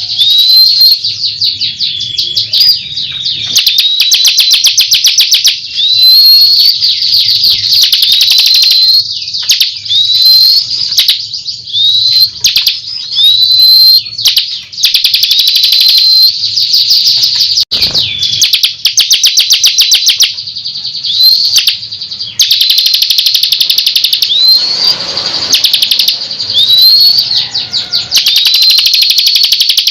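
Bar-winged prinia (ciblek) singing continuously and loudly: fast dry rattling trills alternating with short hooked whistled notes, repeating every second or two. A faint low hum runs underneath, and there is a single sharp click about 18 seconds in.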